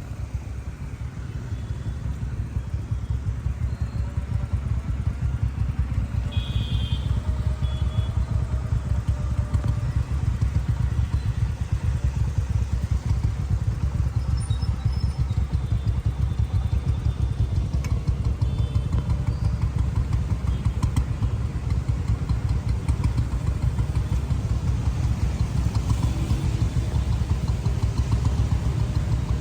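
Motorcycle running on the move, a steady low rumble that builds over the first few seconds and then holds.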